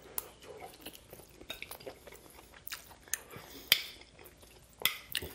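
Close-up chewing of a mouthful of mac and cheese, with wet mouth clicks and smacks. Towards the end a metal fork clinks and scrapes against the glass baking dish.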